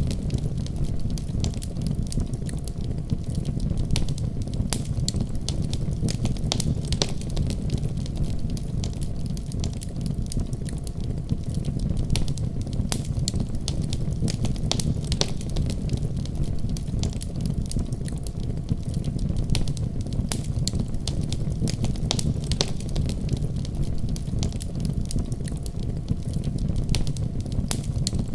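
Wood fire burning with a steady low rumble and frequent irregular crackles and pops throughout.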